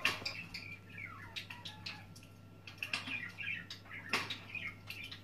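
Wood fire crackling and popping in a fireplace: irregular sharp cracks, with a few short chirp-like whistles in the first second or so, one falling in pitch.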